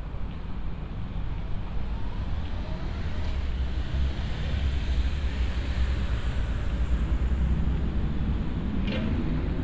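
City road traffic: a steady low rumble that swells in the middle as a vehicle passes, with a short high sound near the end.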